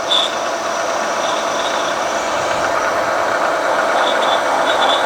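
Mill spindle driving a 13/16-inch drill bit into a hard steel crankshaft, a steady grinding, cutting noise with a thin squeal that comes and goes. The crank's flame-hardened surface makes the bit cut hard.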